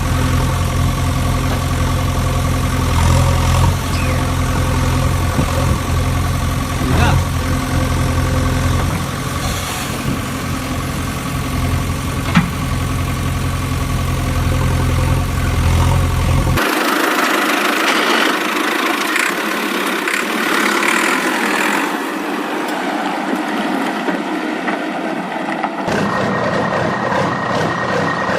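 Vehicle engine running with a steady low hum for about the first half. It then cuts abruptly to a higher hissing sound without the low rumble, and near the end a steady high tone joins in.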